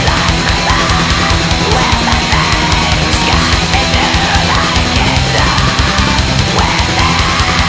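Melodic black metal: a heavy, distorted band of electric guitars and fast drums, playing loud and dense without a break.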